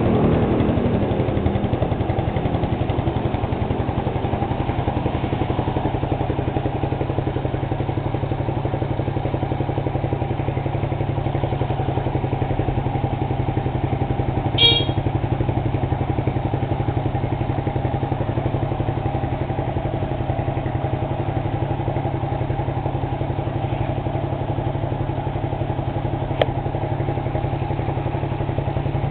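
Honda FTR223's air-cooled single-cylinder four-stroke engine idling steadily through an aftermarket RSV muffler, the revs dropping back to idle in the first second. A short sharp click is heard about halfway through.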